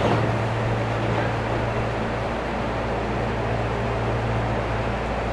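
Steady low hum under an even rushing noise, typical of an electric train standing at the station platform with its equipment running.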